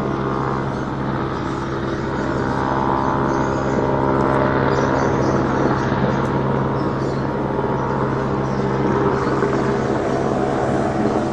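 Hovering police helicopter giving a strange, unusual sound: a steady drone made of a stack of held tones, the lowest and strongest a deep hum, over a rushing rotor noise.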